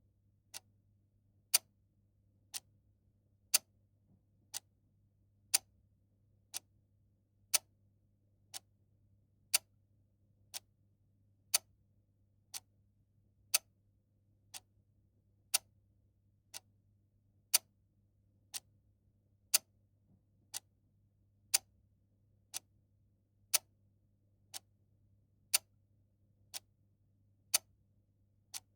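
Mechanical clock ticking steadily about once a second, its ticks alternating louder and softer in a tick-tock pattern, over a faint low hum.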